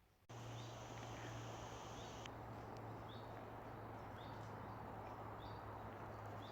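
A small bird chirping over and over, short falling chirps about once a second, over a steady rushing background with a low hum. The sound starts abruptly just after the beginning.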